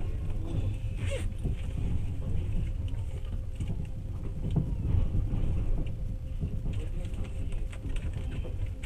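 Passenger train running along the track, heard from inside the carriage: a steady low rumble of wheels on rails, with a sharper clack about a second in.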